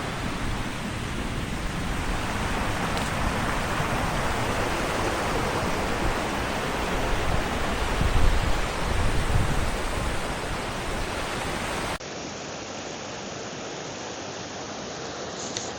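Steady rush of fast-flowing stream water, with a few low bumps on the microphone around the middle. About 12 seconds in, a cut brings a quieter, duller rush of water.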